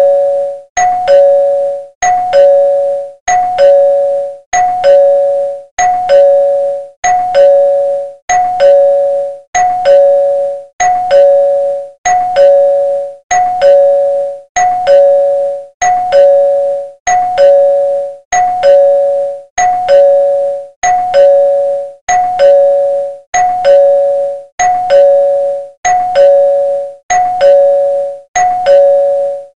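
Two-tone ding-dong doorbell chime, a higher note followed by a lower one, repeating without a break about once a second.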